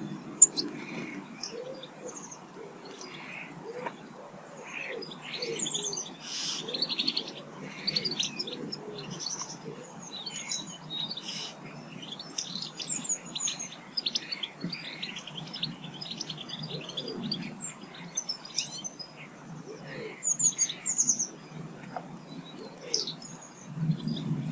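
Garden birds at feeders chirping and calling over one another in a steady chorus of short high chirps and trills, with some lower calls underneath and a single sharp tap just after the start.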